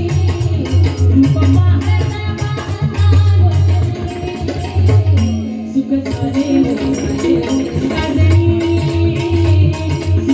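Instrumental interlude of a devotional abhang: pakhawaj drumming with deep bass strokes, small hand cymbals keeping a steady beat, and held harmonium-like melody notes. The drum and cymbals drop out briefly about five and a half seconds in, then resume.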